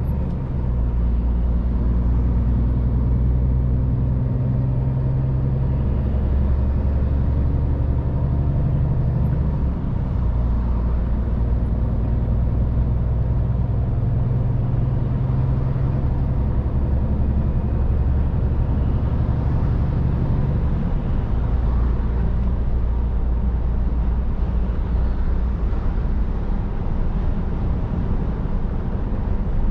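Scania R500 truck's diesel engine running under way, heard from the cab. The engine note breaks and changes pitch about ten seconds in and again around twenty-one seconds, as with gear changes.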